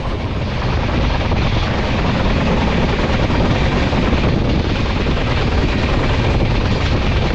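Passenger train running at speed: a steady, loud rumble of wheels on the track mixed with rushing air noise.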